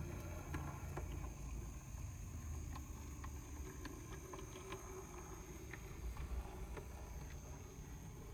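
HO-scale brass model streetcar running on track: a low rumble with scattered light clicks from the wheels on the rails, over a steady high whine.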